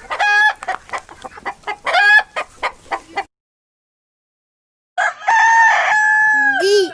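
Chickens clucking with repeated short calls, then after a silent pause a rooster crowing once, a long held call that drops in pitch at the end.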